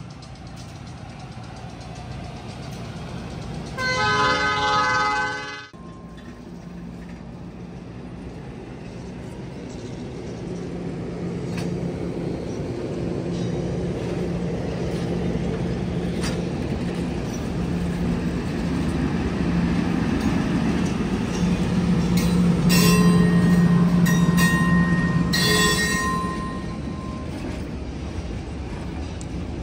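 A train horn sounds one loud blast about four seconds in and cuts off abruptly. Then a train of streamlined stainless-steel passenger cars rolls past, a steady rumble of wheels on the rails with a few sharp clicks, swelling to its loudest with two brief high squealing tones about three-quarters of the way through.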